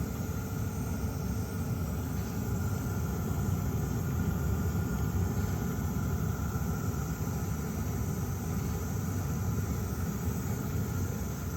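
Webasto Airtop 2000 diesel-fired air heater running steadily: an even low rumble from its burner and blower with a faint steady whine on top, like a small turbo.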